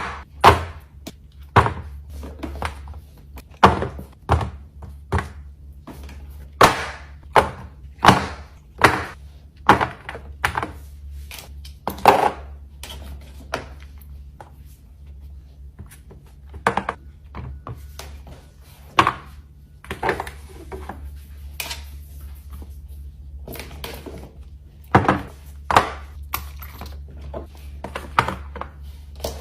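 Fidget toys being handled and set down on a surface: a string of short knocks and clicks at irregular intervals, denser in the first half and again near the end, over a steady low hum.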